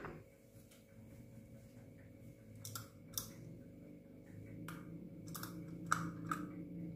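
Scattered short, soft clicks and taps, about six in all, more of them in the second half, over a steady low hum.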